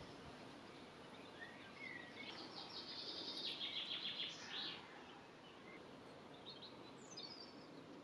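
Faint songbird song over a steady outdoor hiss: a burst of fast, high repeated notes about two and a half seconds in, with a few fainter chirps before and after it.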